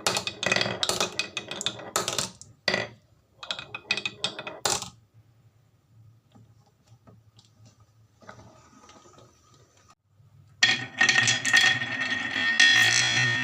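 Marbles clattering and clicking along a HABA wooden marble run: a rapid run of clicks and clinks for about five seconds, then only faint scattered ticks. Electronic music starts near the end.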